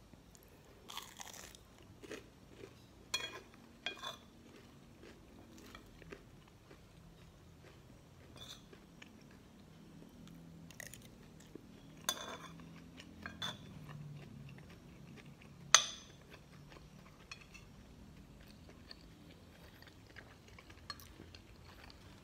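Close-up chewing and crunching of breaded chicken nuggets and fried rice, with scattered clinks of a metal fork and spoon on a ceramic plate. The sharpest clink, with a short ring, comes about 16 seconds in.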